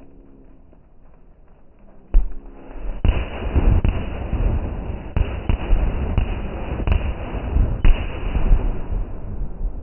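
Fireworks going off: a single bang about two seconds in, then from about three seconds a dense barrage of bangs and crackling with sharper reports scattered through, easing near the end.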